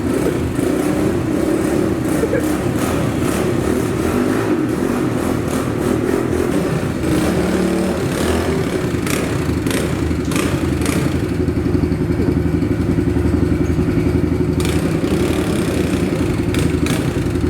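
Small pit bike engine idling steadily, with a few knocks and clatter over the middle.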